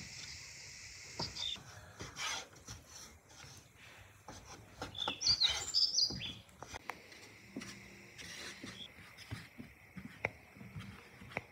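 Birds chirping, with a quick run of chirps about five to six seconds in, over scattered soft knocks and taps of dough being cut and handled on a wooden board.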